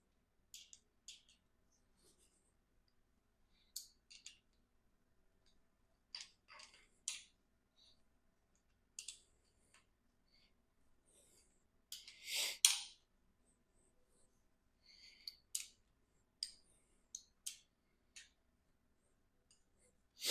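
Scattered metallic clicks and clinks of hand tools and engine parts being handled, with a louder rattling clatter about twelve seconds in.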